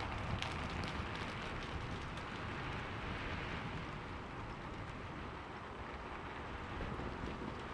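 Steady rain falling, with many small drops pattering.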